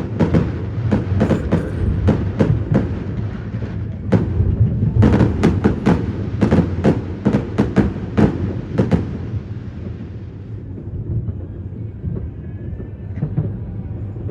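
Fireworks going off in rapid succession, many sharp bangs and pops overlapping, thinning out to fewer, duller ones about ten seconds in, over a steady low rumble.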